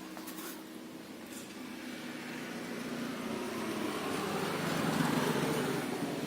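A steady mechanical drone, like a motor running, that grows louder over the first few seconds and then holds.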